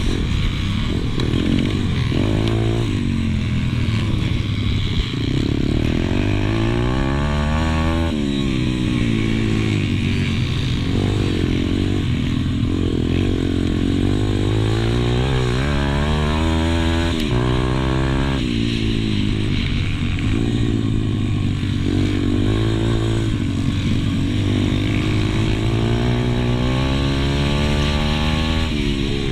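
Pit bike engine racing, the revs climbing and dropping back again and again as the rider accelerates, shifts and brakes around the track.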